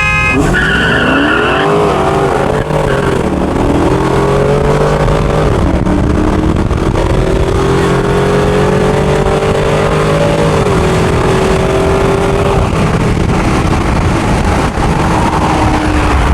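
A short car-horn honk near the start, then a V8 engine at full throttle, its revs climbing and dropping back at each upshift, about four shifts in a row.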